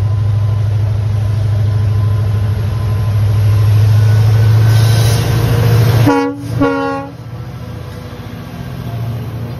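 Train approaching a level crossing with a steady low drone that grows louder, then two short blasts of the locomotive horn about six seconds in. The train then runs past the crossing at a lower level.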